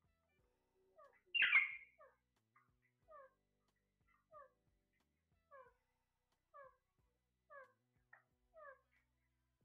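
Short, falling meow-like calls repeated about once a second, with one louder, harsher call about a second and a half in.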